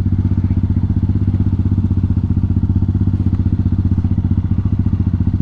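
Hawk 250 dual-sport motorcycle's single-cylinder four-stroke engine idling with an even, steady beat and no revving.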